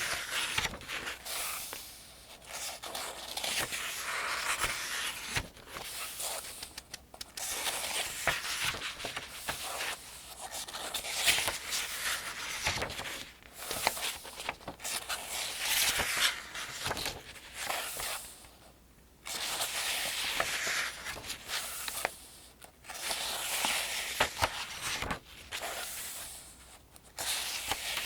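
Paper pages of a thin almanac being turned one after another, each turn a crinkling swish of newsprint-like paper, at a roughly steady pace of one every few seconds.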